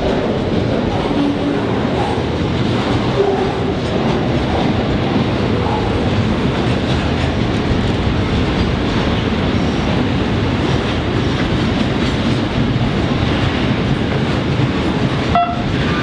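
A freight train's wagons rolling past close by: a steady, loud noise of steel wheels running on the rails.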